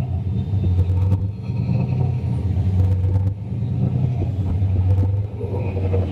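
Turbocharged 351 Windsor V8 in a foxbody Mustang running steadily with a deep, rumbling exhaust note.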